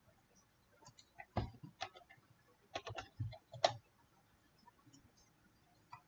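Computer mouse clicking: a handful of short, sharp clicks in quick succession, the loudest about three and a half seconds in.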